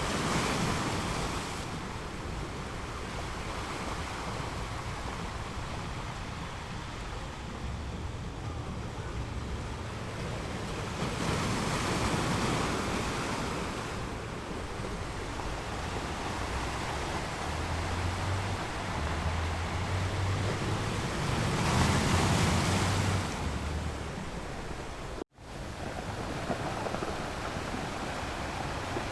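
Sea waves breaking on a beach, with a surge of surf about every ten seconds and steady wash between, and wind rumbling on the microphone. Near the end the sound drops out for a moment, then comes back as a steadier hiss.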